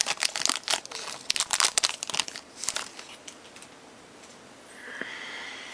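Trading card pack wrapper crinkling and tearing as it is opened by hand, a dense crackle for about the first three seconds that then dies away.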